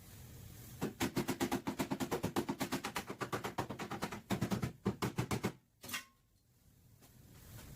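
Rapid, evenly spaced metal strikes on a car's sheet-metal back panel, about ten a second, pausing briefly once and stopping shortly after halfway, during body repair.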